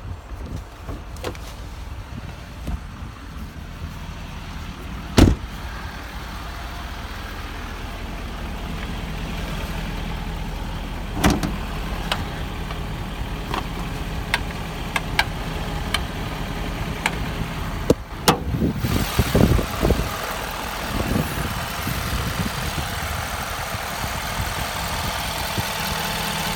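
Truck engine idling steadily, with a loud knock about five seconds in and a cluster of clunks and knocks a little past two-thirds of the way through.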